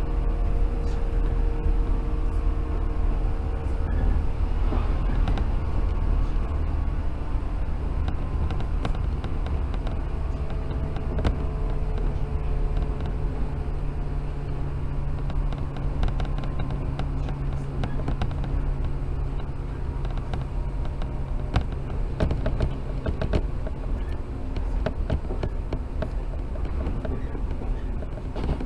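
Inside a 115-series electric multiple unit running along the line: a steady low rumble of wheels on rails with the hum of the electric traction motors and gearing holding a steady tone, over scattered clicks and knocks from the track.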